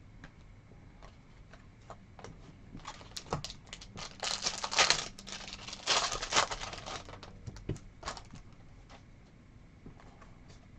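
Trading cards being handled and flipped through: quick light clicks and rustles, busiest from about three to seven seconds in.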